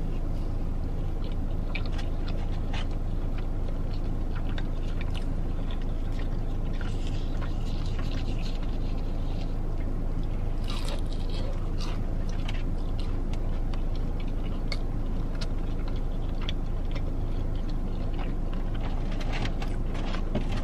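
A person biting and chewing breaded fried chicken fingers, with scattered small crunches and mouth clicks, over a steady low hum inside a car.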